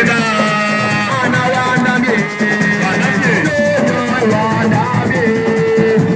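Group singing of a chant, with rattles shaken in a fast, steady rhythm throughout.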